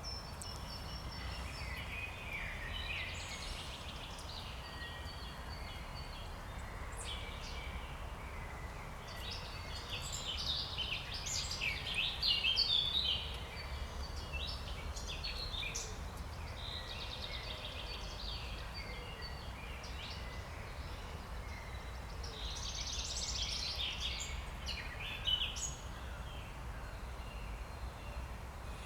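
Wild songbirds singing spring song in several bursts of quick chirping phrases, strongest around 10 to 13 seconds in and again near 23 seconds, over a steady low rumble.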